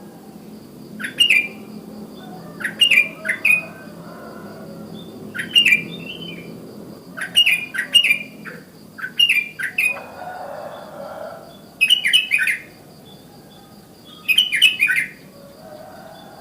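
Sooty-headed bulbul (kutilang) calling: short bubbly phrases of a few quick notes, repeated every second or two. A faint steady high tone runs behind them.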